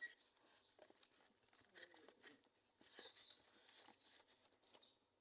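Near silence: room tone with faint, scattered soft ticks and a few tiny high-pitched sounds.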